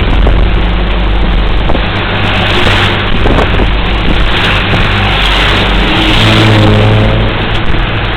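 Truck on the move: steady engine hum under loud wind and road noise. The engine note grows stronger about six seconds in, then eases.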